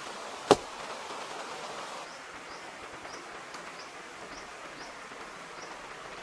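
A single sharp knock about half a second in, standing out above a steady outdoor hiss; from about two seconds in, faint high chirps repeat roughly twice a second.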